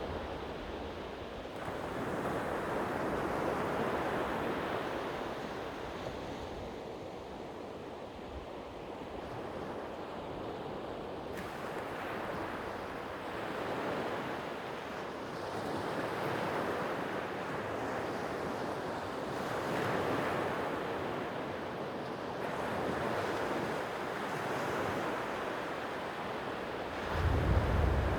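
Sea waves washing onto the shore, swelling and falling back every few seconds. A low rumble comes in near the end.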